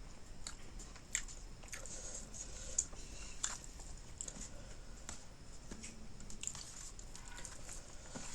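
Close-miked eating sounds: a person chewing fish curry and eromba, with irregular wet mouth smacks and clicks scattered through.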